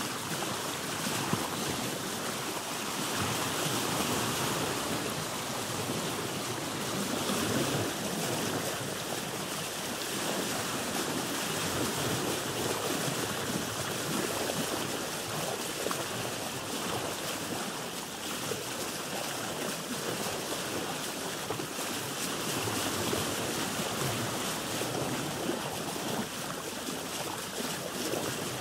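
Ocean water washing and sloshing around a boat: a steady wash of waves that swells and eases every few seconds.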